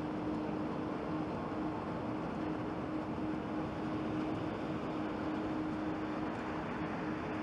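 Jet airliner engines running, a steady rumble with a faint constant hum.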